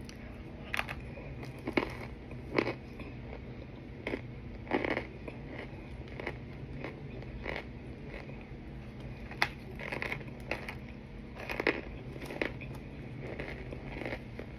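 Close-up biting and chewing of hard chunks of Argo cornstarch mixed with baking powder: about a dozen irregular crisp cracks and crumbly crunches.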